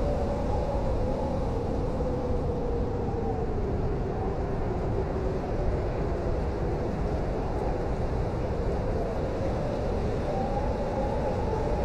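Blizzard wind blowing steadily: a deep rumble with a moaning howl that slowly wavers in pitch.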